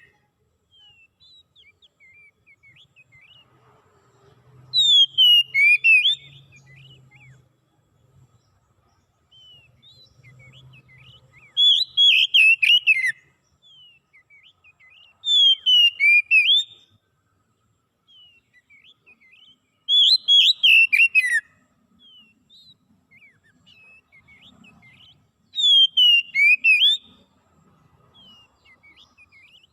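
A songbird singing loud, quick whistled phrases of about a second and a half, with falling notes, roughly every four to five seconds, and soft short chirps in between.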